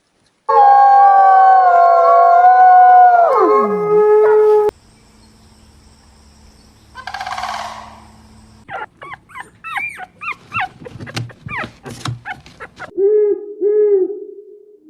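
A dog howling loudly for about four seconds, the pitch sliding down at the end. After a short rush of noise, a quick run of high yips and whimpers follows, then two short whines near the end.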